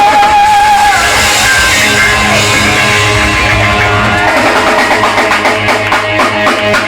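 Rock band playing with electric guitar and drum kit; a held, wavering note ends about a second in, then guitar chords and drum hits carry on.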